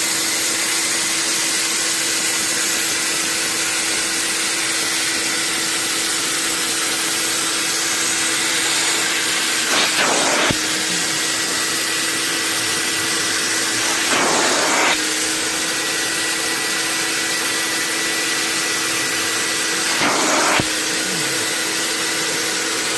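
Carpet extractor running steadily, its wand sucking dirt and water out of car carpet: a constant motor whine over a hissing rush of suction, with three brief louder surges.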